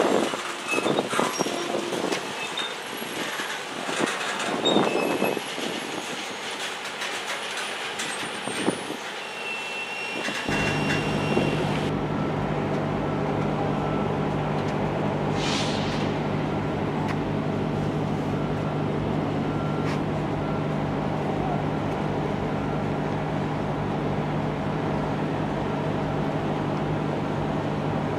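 A train passing, with wheels clattering and squealing for about the first ten seconds. It then changes abruptly to a steady, even engine drone with a constant low hum.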